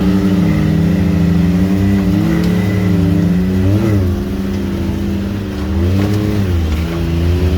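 Can-Am Maverick X3 side-by-side's engine running at part throttle, the revs briefly dipping and rising again about four seconds in and once more around six seconds in.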